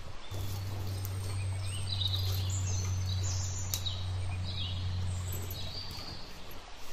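Birds chirping in short, scattered calls over a steady low hum that starts just after the beginning and stops about six seconds in, with one sharp click midway.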